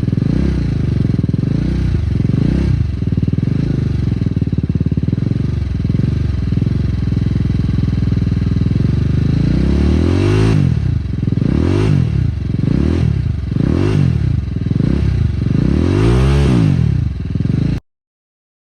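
TVS Apache RR 310 single-cylinder engine running through an aftermarket Mark Performance exhaust: idling at first, then blipped through several quick revs that climb and drop back in the second half. The sound cuts off abruptly near the end.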